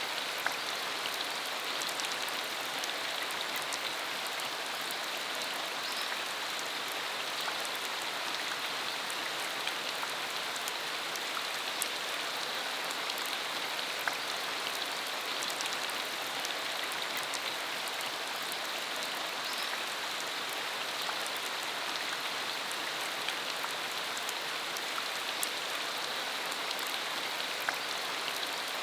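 Steady rain falling, an even hiss with scattered sharper drop ticks, on a dirt country road.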